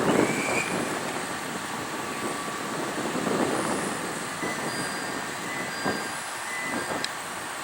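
Diesel train running at a station platform, a steady noisy sound with a louder swell at the start, a few brief thin squeals, and a sharp click about seven seconds in.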